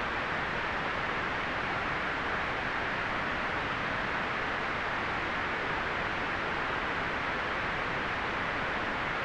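Steady, unchanging white noise: an even hiss, fullest in the middle range and softer in the highs.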